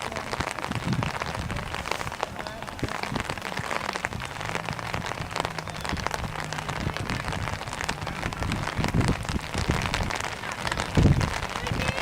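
A steady patter like rain falling close to the microphone, dense with small ticks, under faint distant voices. A few dull low thumps come through, the loudest near the end.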